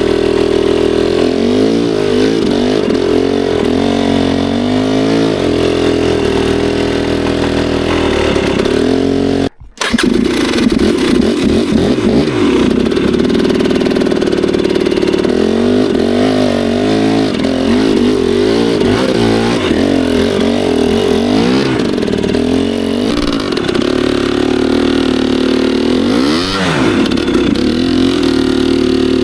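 Two-stroke dirt bike engine working on a technical trail, revving up and down in short bursts as the throttle is blipped over obstacles. The sound drops out for a moment about ten seconds in, then the engine carries on.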